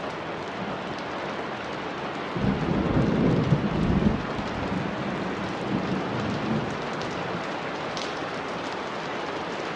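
Steady rain with a roll of thunder. The thunder rumbles in a couple of seconds in, is loudest a second or two later, and dies away over the next few seconds.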